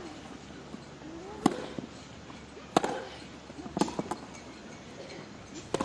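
Tennis rally: a ball struck back and forth by rackets, four sharp pops about a second and a bit apart, with a quieter extra knock just after the third.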